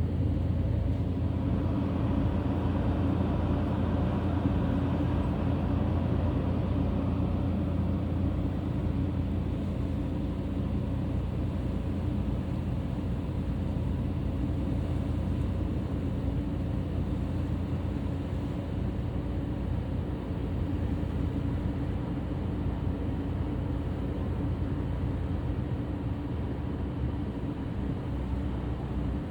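Ferry engine running steadily, a low drone with a few held engine tones.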